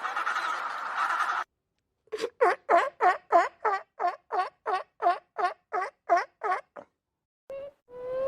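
A dense, noisy clamour of animal calls that cuts off suddenly about a second and a half in. After a short gap comes a bird-like call repeated about fourteen times, roughly three a second, each a short pitched note.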